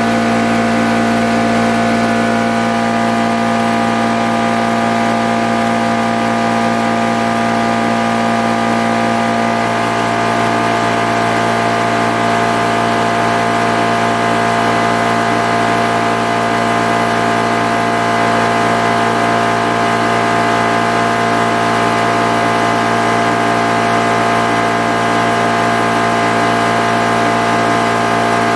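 High-pressure PCP air compressor running steadily with an even motor hum, its tone shifting slightly about ten seconds in.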